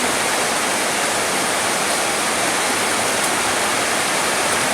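Steady rain: an even, dense hiss with no breaks.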